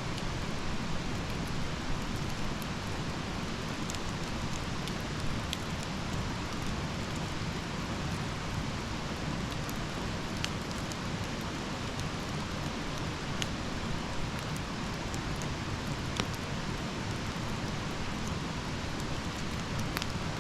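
Campfire burning: a steady hiss and rumble of flames with scattered sharp crackles and pops, about one every second or two.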